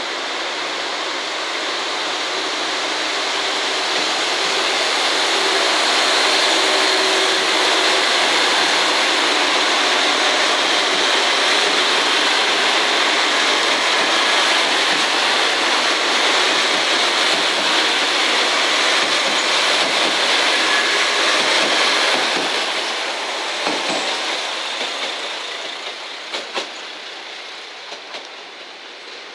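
JR Shikoku 2000 series and N2000 series diesel multiple-unit express train running through a station: engine and wheel noise builds to a loud, steady rush, then fades as the train moves away. A few sharp clacks come near the end.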